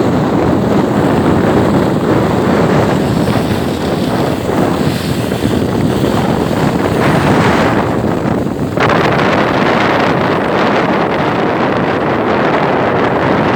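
Strong wind buffeting the microphone, a loud, gusting rush that thins a little about nine seconds in.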